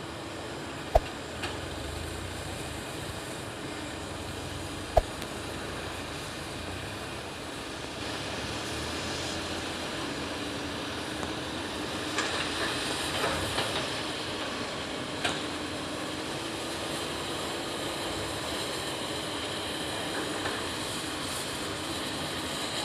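Excavator running steadily with a slightly wavering drone. Two sharp knocks come about one and five seconds in, and a run of metal clanks follows about halfway through.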